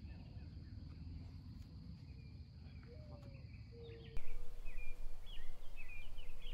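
Songbirds chirping outdoors in short repeated phrases over a low background rumble. About four seconds in, a loud steady hiss comes in, with the bird calls coming quicker on top of it.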